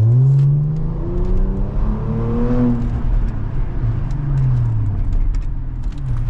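Car engine accelerating, its pitch rising over the first two to three seconds, then easing off and rising and falling again.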